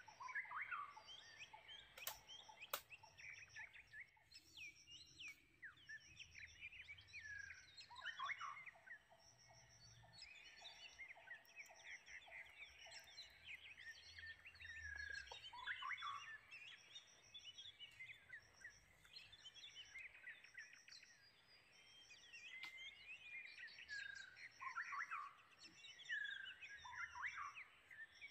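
Faint forest birdsong: many birds chirping and calling, with a high, rapidly pulsed call repeating about once a second. A short run of lower pulsed notes comes about a third of the way in.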